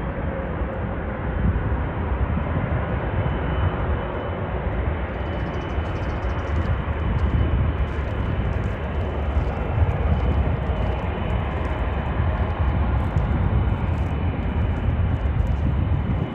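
Jet airliner's engines during takeoff: a steady, deep rumble with a faint high whine over it.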